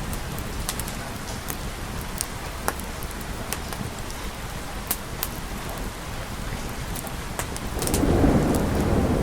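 Steady rain with scattered sharp ticks, and a low rumble of thunder swelling up near the end.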